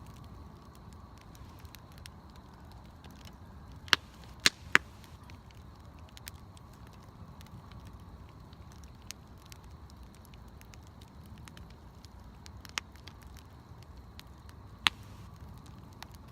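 Wood bonfire burning, with a few sharp crackling pops: three close together about four seconds in, a lighter one later and a loud one near the end, over low steady background noise.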